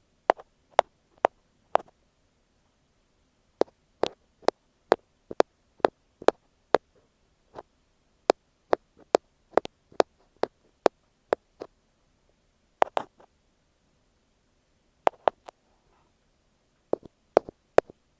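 Ear pick tapping directly on an earphone microphone: sharp, close taps in irregular runs, at times about two a second, with brief pauses between runs.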